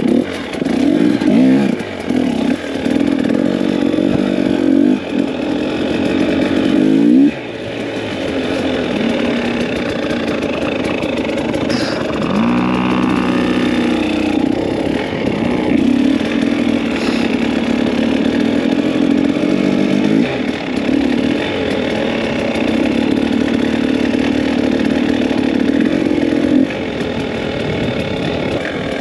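Two-stroke dirt bike engine running under way, the revs rising and falling with the throttle, with a marked swing in pitch around thirteen seconds in.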